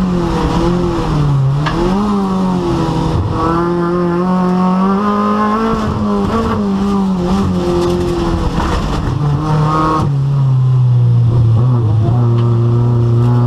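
Rally car engine at racing revs on a rallycross track, the pitch climbing and dropping repeatedly through gear changes and lifts. About ten seconds in it falls suddenly to a lower, steadier note.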